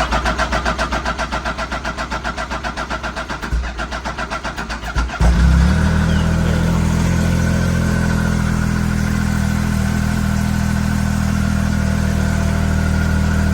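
A 2015 Arctic Cat ZR7000 snowmobile's four-stroke triple cranking on its electric starter in a cold start, a rhythmic pulsing, then catching about five seconds in and settling into a steady idle.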